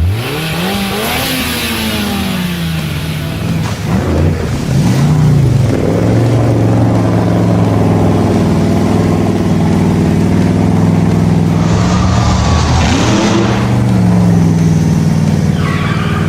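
Monster truck engine revving up and down in the first few seconds, then running on at a steady pitch, with a short hiss of tyre or spray noise about twelve seconds in.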